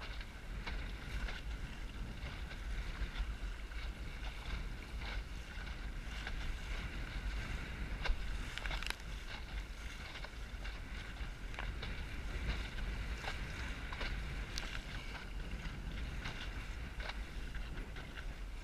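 Wind rumbling on the microphone aboard a small Snark sailboat, with water splashing and many short, sharp slaps against the hull scattered throughout.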